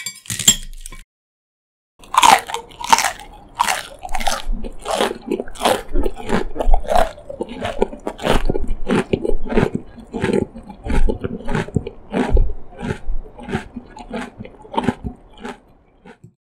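Close-up chewing of crunchy food. One sharp bite comes at the start, then a short pause, then steady crunching chews about twice a second that grow fainter near the end.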